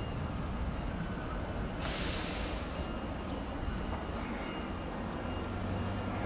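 Frecciargento high-speed electric trainset rolling slowly into the station with a steady low rumble, and a short hiss of released air about two seconds in.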